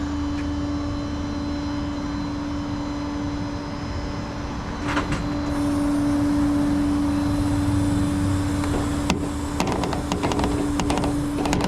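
A motor running with a steady, constant-pitched hum that gets louder about halfway through, with a few clicks and knocks near the end.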